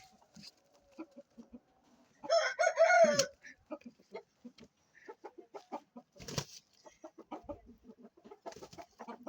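An aseel rooster crowing once, a short crow of about a second that starts a little after two seconds in and drops in pitch at its end. Scattered soft clucks and clicks follow, with a brief rustle about six seconds in.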